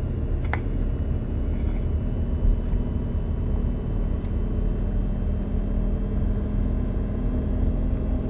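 Lamborghini engine running at low revs on light throttle as the car rolls at about 30 km/h, heard from inside the cabin as a steady low rumble.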